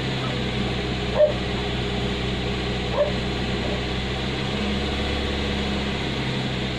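Car engine idling steadily, with two short dog yips about one and three seconds in.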